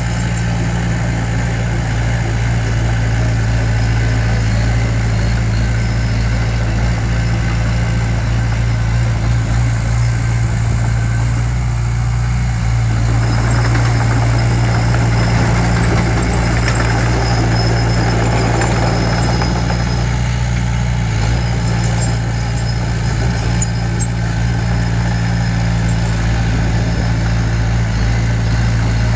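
Diesel engine of heavy construction equipment running steadily at a low, even pitch, with a rougher, noisier stretch in the middle.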